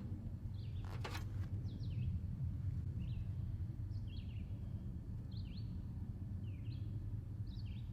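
A bird chirps repeatedly in short falling chirps, roughly once a second, over a steady low rumble. One sharp click sounds about a second in.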